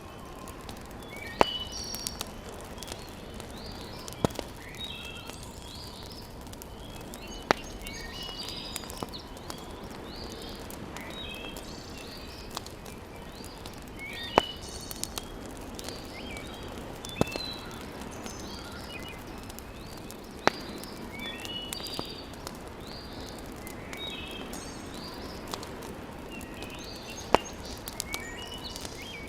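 Wood fire in a fireplace crackling, with a sharp pop every few seconds over a steady low hiss. Small birds chirp throughout.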